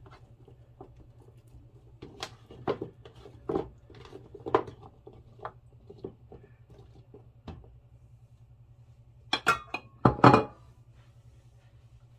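Kitchen clatter: scattered clinks and knocks of a metal pan and utensils while oiled vegetables are handled, with a louder clatter about nine to ten seconds in. A faint steady hum runs underneath.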